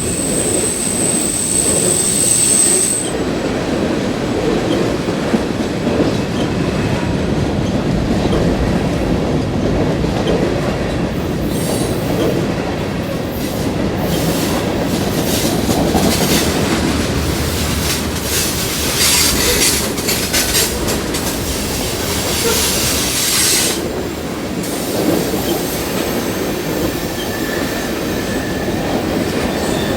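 A CN freight train rolling past with a steady rumble of steel wheels on rail and clickety-clack over the joints. A high wheel squeal is heard for the first few seconds, and more high squealing comes and goes from about twelve seconds to about twenty-four seconds in.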